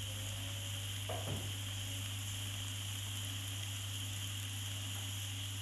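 Chopped mustard-green stems with egg and a little water sizzling steadily in a wok, with a constant low hum underneath.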